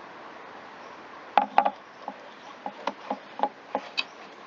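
Irregular sharp clicks and taps of small plastic and metal parts being handled while working on a backpack blower's throttle cable assembly. They begin about a second and a half in, with two louder clacks close together, then lighter ticks.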